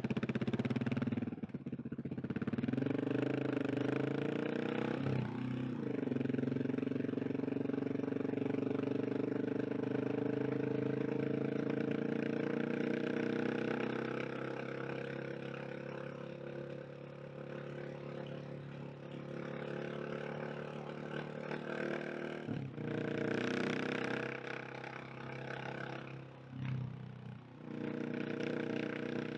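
KTM 690 SMC R supermoto's single-cylinder engine running under way. Its note climbs steadily through the revs and then holds, broken by brief dips about a second and a half in, around five seconds in and again twice near the end, where it is shifting gear.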